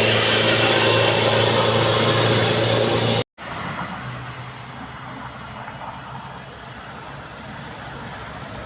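Heavy truck engine running hard at steady revs, loud and close, with a lot of hiss. It stops abruptly at a cut a little over three seconds in, leaving a much quieter background of road traffic and a distant engine.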